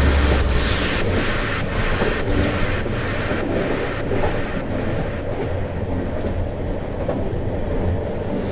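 Train running on its rails, a steady rhythmic beat of about two to three strokes a second whose higher sounds fade after about four seconds.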